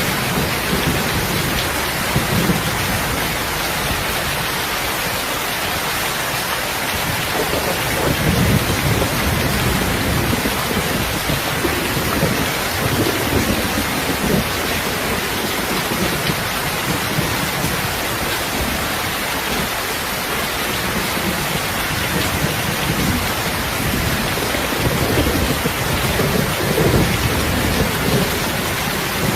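Steady rain falling, with low rumbles of thunder that swell and fade every few seconds, mixed with a crackling wood fire.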